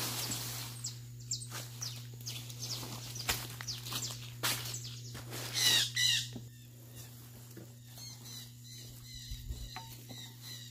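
Birds chirping in quick, repeated calls, loudest in a dense burst of chirps a little over five seconds in, with more chirps near the end. Intermittent knocks and scrapes sound in the first half, over a steady low hum.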